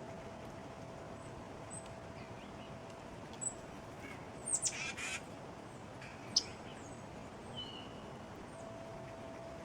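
Small songbirds calling at a backyard feeder: scattered thin, high chips, with a short, louder run of calls about halfway through and a brief falling note a little later.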